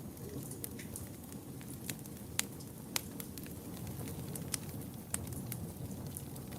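Wood fire burning in a fireplace: a steady low rumble with scattered sharp crackles and pops, two louder pops a little before the middle.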